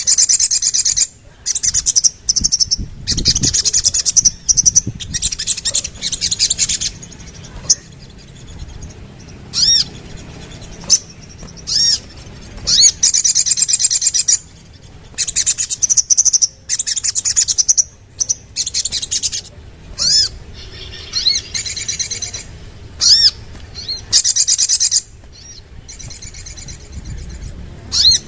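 Little spiderhunter (sogok ontong) singing: loud, high, rapid trilling phrases of one to two seconds each, broken up by single sharp, rising notes.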